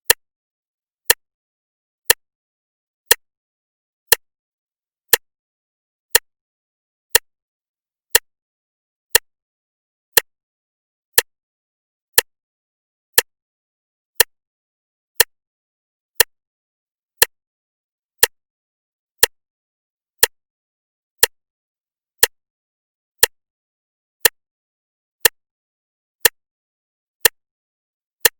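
Clock ticking, one sharp tick each second, evenly spaced, with silence between the ticks.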